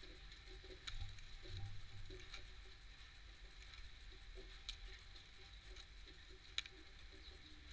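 Faint, irregular taps and clicks of small birds (tits and sparrows) pecking at sunflower seeds, with three sharper clicks about a second in, near the middle and near the end.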